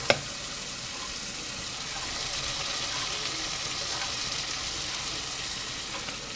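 Diced chicken breast and carrots sizzling in a stainless steel pot, a steady hiss that swells slightly after about two seconds. A light click comes right at the start.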